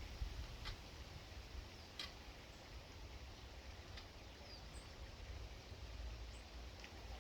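Faint outdoor ambience at an urban bird feeder, with a low steady rumble. Three sharp clicks come about two seconds apart, and in the second half there are a couple of brief high bird chirps.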